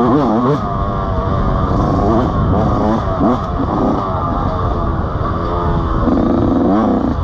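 Motorcycle engine revving up and down again and again, its pitch rising and falling in quick swells.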